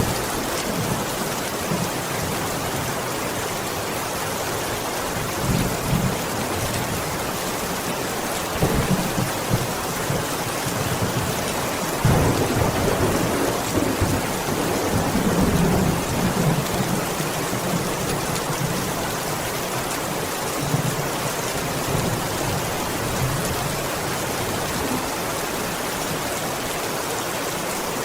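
Steady heavy rain falling, with low rolling thunder that swells several times, strongest in the middle.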